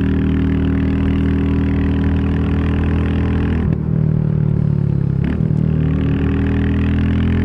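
Royal Enfield Classic 350's single-cylinder engine running under way. The note briefly dips and changes pitch twice, about three and a half and five seconds in, then runs steady again.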